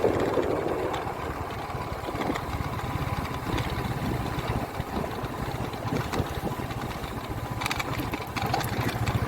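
A vehicle engine running steadily with a rapid, even firing beat.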